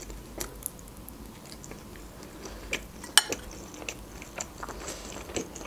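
Close-miked chewing and wet mouth clicks of someone eating fried sausage, with scattered soft clicks and the sharpest click about three seconds in.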